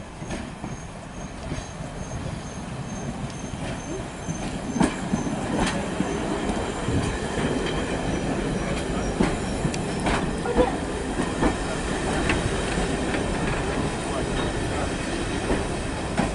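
Passenger train coaches rolling slowly past at close range: a low rumble with repeated clicks and clanks of wheels over rail joints and a little wheel squeal. It grows louder over the first few seconds as the train draws in, then holds steady.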